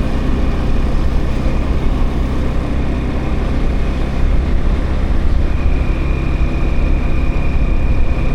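Motorbike engine running at a steady pace, a loud low drone. A thin, steady high-pitched tone joins it about five and a half seconds in.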